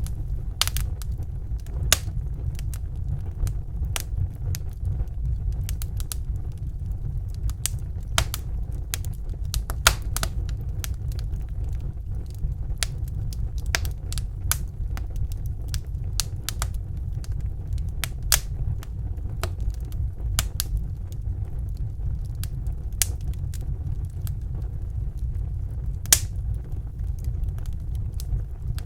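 Wood fire in a fireplace crackling: irregular sharp pops and snaps, a few every couple of seconds, over a steady low rumble.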